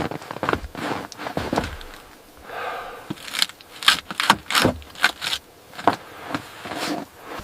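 Irregular scraping and knocking, a run of sharp clicks that comes thickest in the middle.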